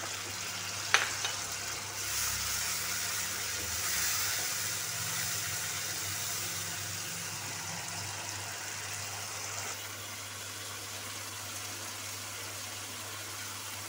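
Onion, tomato and spice masala sizzling in oil in a nonstick frying pan on a gas burner, stirred with a wooden spatula. There is a sharp tap about a second in. The frying hiss is strongest for the first several seconds and then eases, over a steady low hum.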